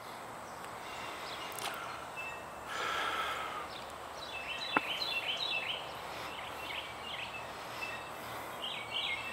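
Small birds chirping in quick runs of short notes over steady outdoor background noise, with a brief harsher sound about three seconds in and a single sharp knock about halfway through.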